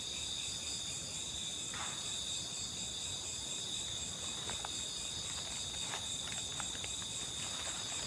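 A steady chorus of crickets and other insects, several high-pitched trilling tones layered together, with a few faint clicks or rustles in between.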